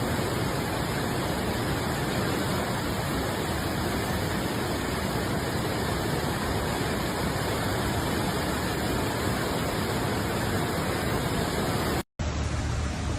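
Steady roar of fast-running floodwater. It breaks off for an instant near the end and comes back with a deeper hum underneath.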